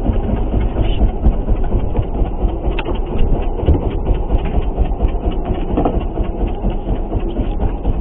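Steady low rumble aboard a fishing boat in rough seas, with scattered light knocks.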